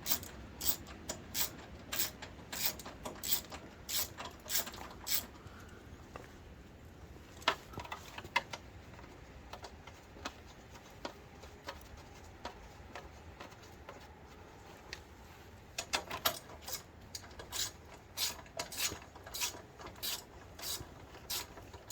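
Ratchet wrench clicking in short runs as 10 mm fender bolts are tightened: a run of clicks, a pause of several seconds with only a few scattered clicks, then clicking again near the end.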